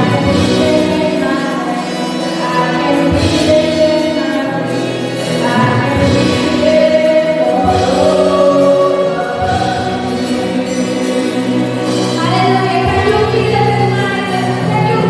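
A worship team singing a gospel praise song, voices in chorus over sustained keyboard and bass accompaniment.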